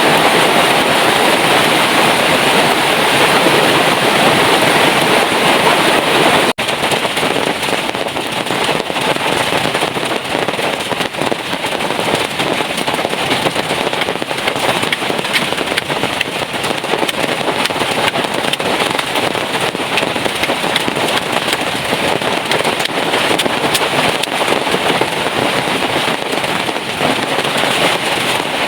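Heavy rain falling steadily: a dense hiss full of fine crackling drop impacts. A momentary break about six and a half seconds in, after which it is slightly softer.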